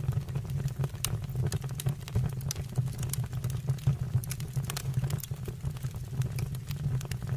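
Wood fire burning in a fireplace: a steady low rumble of the flames with frequent, irregular sharp crackles and pops from the burning wood.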